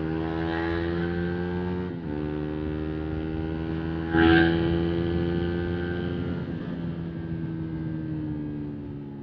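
Single-cylinder 125 cc motorcycle engine running under way, its pitch slowly easing down. There is a brief dip about two seconds in, like a gear change, and a short louder burst a little after four seconds.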